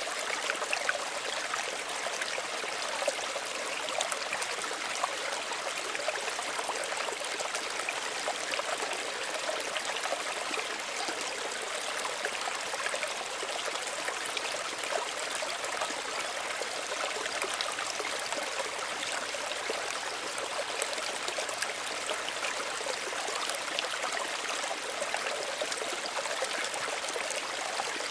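A small stream running steadily, with a fine trickling and splashing of water over stones.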